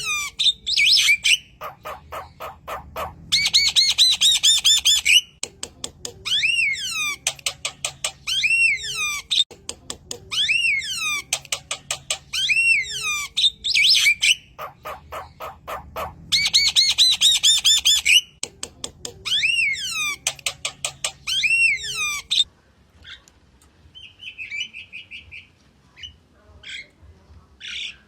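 Javan myna (jalak kebo) singing a loud, varied song: arching whistled notes that rise and fall alternate with fast rattling runs of harsh clicks, and the same phrases come round again and again. About 22 seconds in the song gives way to quieter, scattered short calls.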